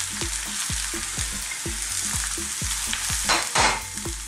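Shredded white cabbage and potatoes sizzling steadily in hot oil in a frying pan on high heat, with a louder surge of sizzle about three and a half seconds in.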